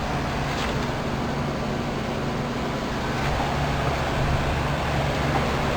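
Residential heat pump outdoor unit running in heat mode, a steady low compressor hum with a noisy haze over it, growing a little louder about four seconds in.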